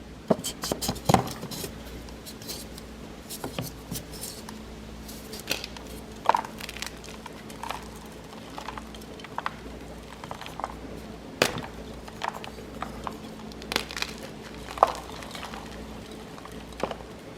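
Blocks of gym chalk being crushed, with crisp crunches: a quick run of them at the start, then single crunches about every second.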